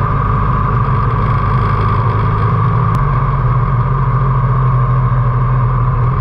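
Harley-Davidson V-twin motorcycle engine running at a steady cruise, heard from the bike along with road and wind noise. The engine note shifts slightly about three seconds in.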